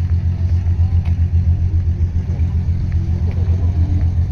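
A car engine idling close by: a steady, low, evenly pulsing rumble. Faint voices in the background.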